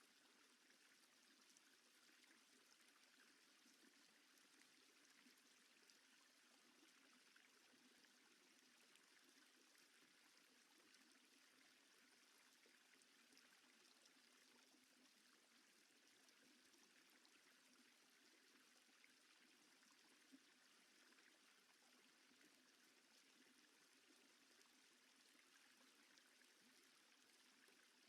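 Near silence: a faint steady hiss, with one tiny tick about twenty seconds in.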